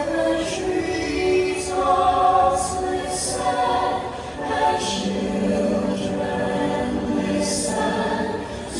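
Choir singing Christmas music, with held, overlapping voices, played back over loudspeakers as the show's soundtrack.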